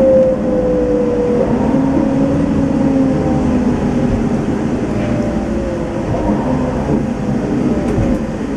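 Setra S 431 DT-L double-decker coach with a manual gearbox, engine and drivetrain running under way. A whining tone falls in pitch over the first second and a half, and a lower whine rises and holds briefly around two to three seconds in.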